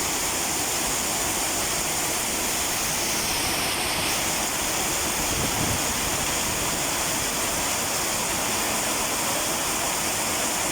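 Heavy rainstorm: a steady, even rush of falling rain and floodwater running through a roadside gutter.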